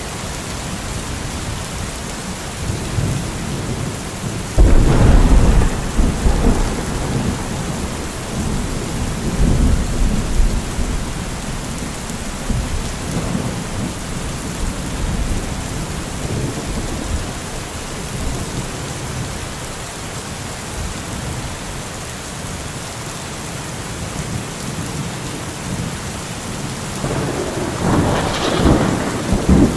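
Steady heavy rain falling, with a loud thunderclap that breaks in suddenly about four seconds in and rumbles for a couple of seconds, fainter rumbling a few seconds later, and another rolling peal of thunder building near the end.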